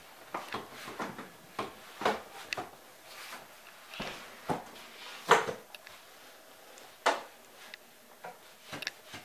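Irregular knocks and clunks, about a dozen spread unevenly with quiet gaps between; the loudest comes a little past the middle.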